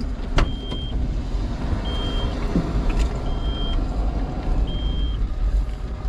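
A car's warning chime, beeping as the door is opened, a short high beep repeating about every 1.4 seconds over a steady low rumble, with a sharp click near the start.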